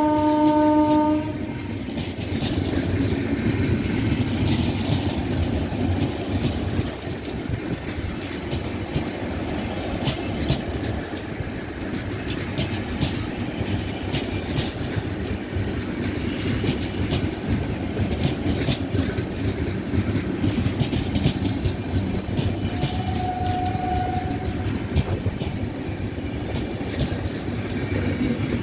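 Passenger train coaches rolling past: a steady rumble of wheels on rail with rapid clicking over the rail joints. A train horn blast sounds at the start, loudest of all, and a short single higher tone sounds about two-thirds of the way through.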